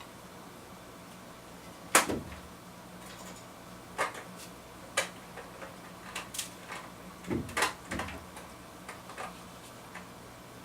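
A string of separate sharp knocks and clicks, as of things being handled and set down, the loudest about two seconds in, over a faint steady low hum.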